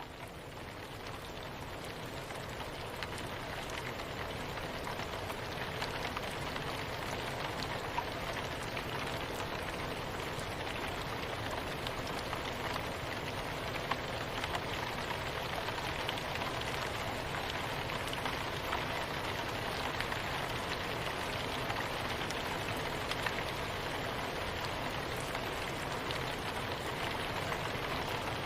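Steady soft rain with many fine drop ticks, fading in over the first few seconds and then holding an even level.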